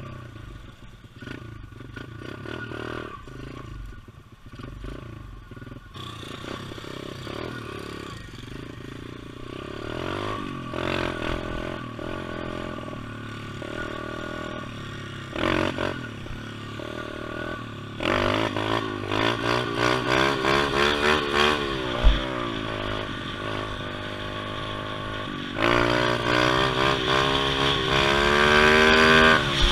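Pit bike engine running and revving, its pitch rising and falling as the bike is ridden. It grows louder and revs harder in the second half, with one sharp knock about two-thirds of the way through.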